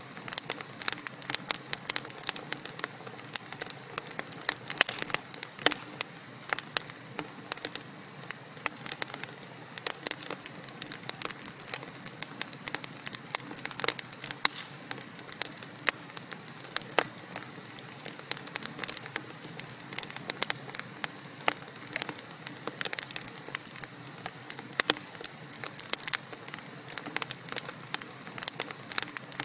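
Wood fire burning in a fireplace: a steady hiss with dense, irregular crackles and pops from the logs throughout.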